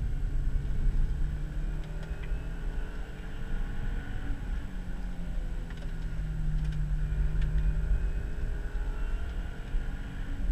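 2000 Subaru Legacy GT's flat-four engine heard from inside the cabin under spirited driving, its pitch rising and falling with the revs through the corners, over steady road and tyre noise. A few light clicks come through around the middle.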